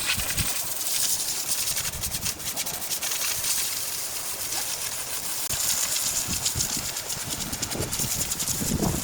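A power tool running with a loud, steady hissing rasp, with a few low knocks near the end.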